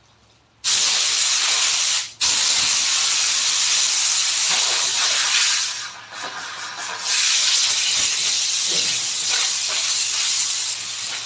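Compressed air hissing from a nozzle in long, loud blasts, starting suddenly, with a brief break about two seconds in and a weaker stretch near the middle.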